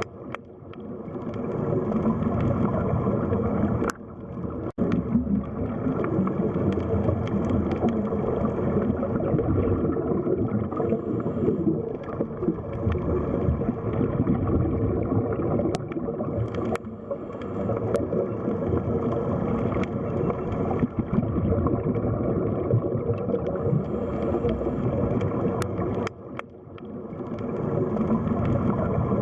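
Underwater sea ambience: a dense, steady rush and gurgle of water, low and muffled. It dips briefly a few times and swells back up.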